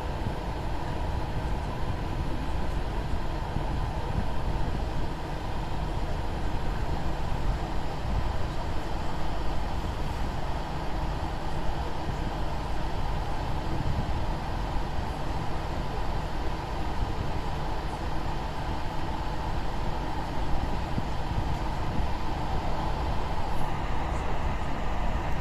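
Steady low rumble and running noise of a moving vehicle, unbroken throughout.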